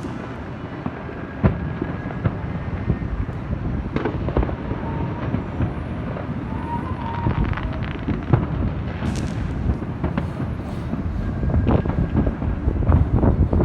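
Fireworks and firecrackers going off continuously: a dense run of pops and bangs over low rumbling booms, getting louder and busier near the end.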